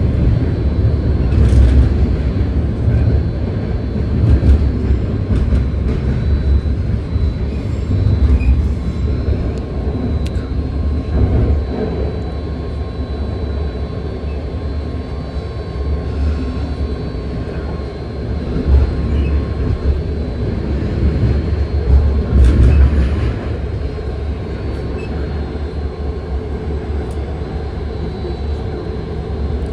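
BART train car heard from inside while running along the track: a heavy, steady low rumble of wheels on rail with a faint steady whine, broken by occasional knocks and rattles on a rough, bumpy stretch.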